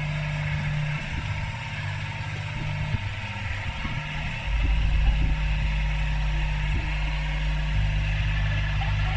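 Yanmar B22 mini excavator's diesel engine running steadily. About four and a half seconds in, its note drops lower and grows louder, and it shifts again near the end.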